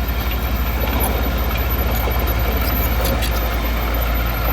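Heavy diesel engine of earthmoving equipment running steadily, with an even low throb.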